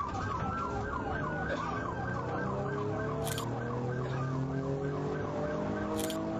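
Police car siren in rapid yelp mode, sweeping up and down about four to five times a second, fading about halfway through. Under it a vehicle engine runs steadily, its pitch slowly rising.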